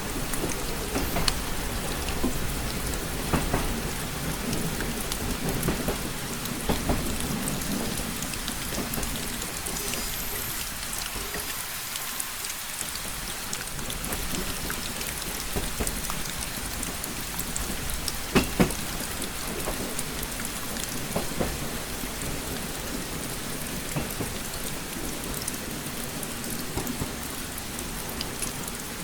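Steady rain with individual drops tapping on a window pane, over a low rumble that dies away around twelve seconds in and then returns. A sharper double tap comes about eighteen seconds in.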